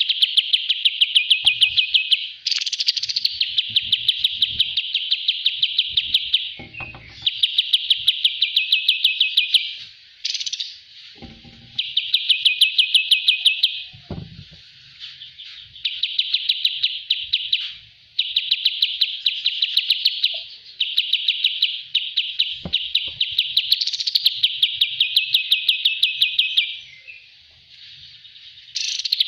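Kapas tembak songbird singing: a long run of rapid trilled phrases, each a couple of seconds of fast high chattering notes, some starting with a quick upward sweep, separated by short pauses.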